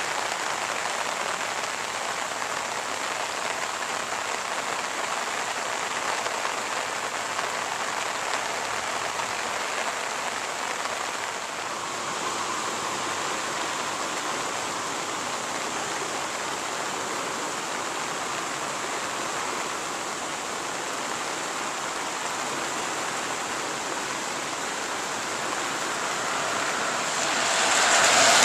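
Steady, even hiss of water, swelling louder near the end.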